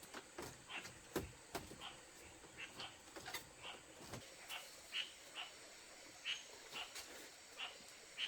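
Faint, irregular light clicks and knocks, about two a second, with a few heavier knocks in the first half.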